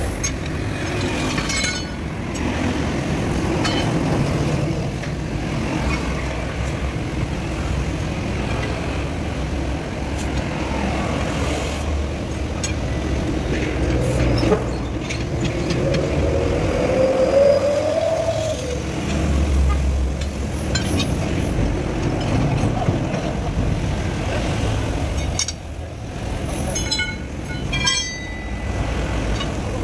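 Heavy truck engine running in a steady low rumble, with a short whine about halfway through and a few sharp metallic clinks near the end.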